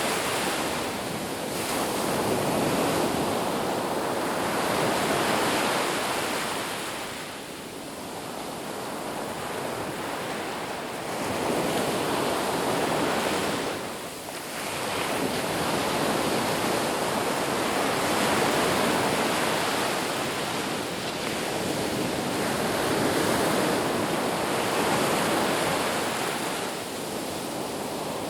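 Ocean surf on a beach: waves breaking and washing in as a continuous rush that swells and fades every few seconds, with two short lulls.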